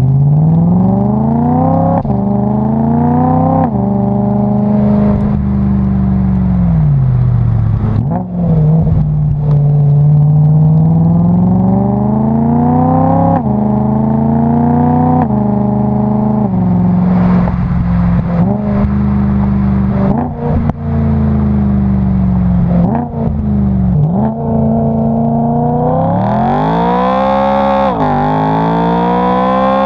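BMW E92 M3's S65 4.0-litre naturally aspirated V8 running hard, its revs climbing and dropping back again and again, then climbing much higher near the end.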